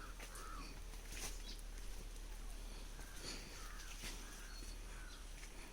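Faint outdoor bird calls: short chirps every second or so, with a few thin high notes, over soft scattered clicks and rustling.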